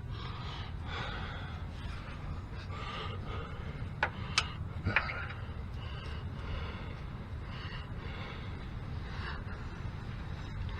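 A few sharp, light clicks of hand tools being handled, about four to five seconds in, over a steady low background hum and faint breathing.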